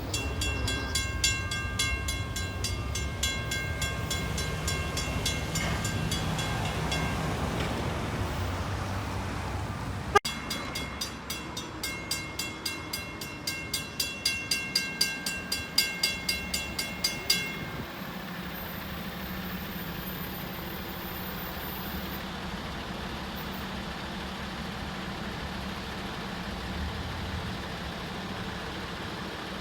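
Railroad grade-crossing bell ringing rapidly over the low rumble of a passing freight train, fading out. After an abrupt cut about ten seconds in, a crossing bell rings again for about seven seconds and stops, leaving a steady low rumble.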